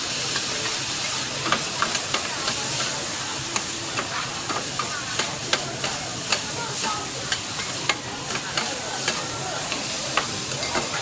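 Street-food frying: a steady sizzle of food in hot oil, broken by sharp, irregular clicks and scrapes of a metal utensil against the pan, about one or two a second.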